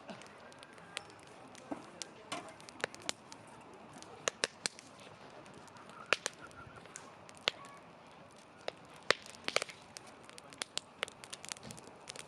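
Wood fire crackling and popping: irregular sharp snaps of burning wood, some louder than others, over a faint steady hiss.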